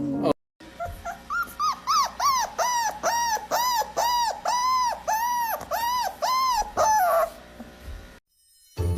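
A dog whining in a rapid series of high cries, each rising and then falling in pitch, about two or three a second.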